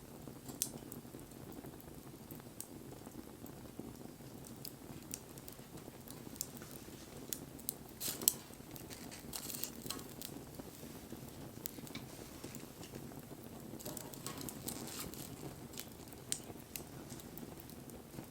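Wood fire burning: a steady low rush of flame with scattered sharp crackles and pops, the loudest about eight seconds in.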